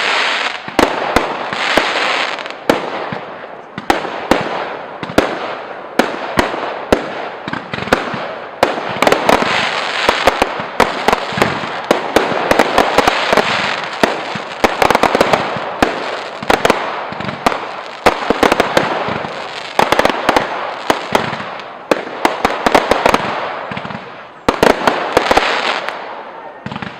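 Fireworks display going off: a dense, unbroken run of sharp bangs with crackling between them, thinning out near the end.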